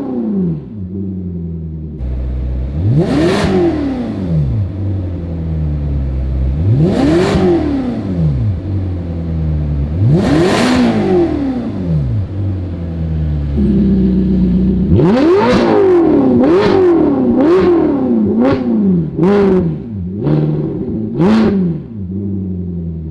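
Ferrari California's 4.3 V8 revved through an aftermarket titanium cat-back exhaust: three long revs rising and falling, then a quick run of about seven short throttle blips.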